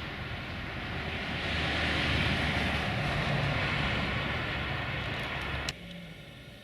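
Rumble and rush of a passing train, swelling and then cut off abruptly about a second before the end.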